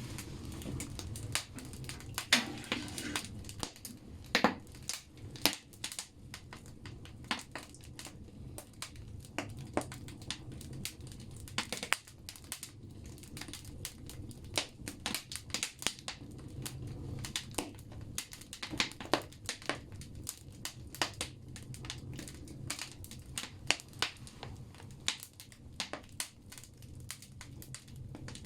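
Firewood burning in a banya stove's firebox: irregular sharp crackles and pops, several a second, over a low steady rumble of the fire.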